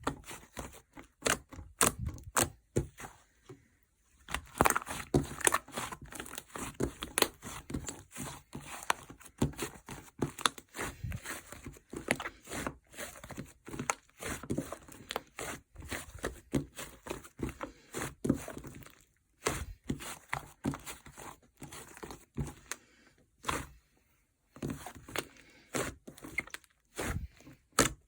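Slime being squished, pressed and stretched by hand, making a dense, irregular stream of sticky pops, crackles and clicks. It pauses briefly about four seconds in and again a little past twenty-three seconds.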